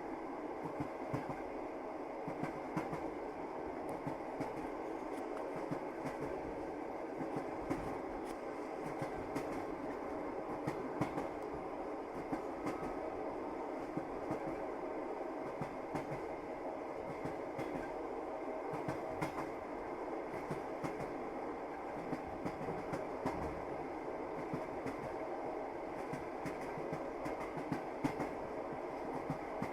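Passenger train running along the track, heard from inside the carriage: a steady rumble of the running gear with frequent clacks of the wheels over the rails.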